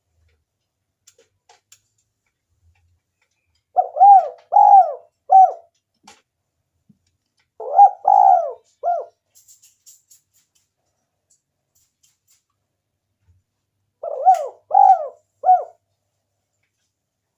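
Spotted dove cooing: three phrases of three or four low, arched coos each, a few seconds apart, used as a lure call for wild doves.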